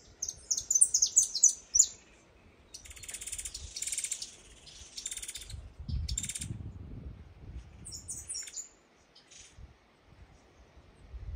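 Birds singing: quick series of high chirps at the start and again around eight seconds in, with a rapid buzzing trill between them and a brief low rumble about six seconds in.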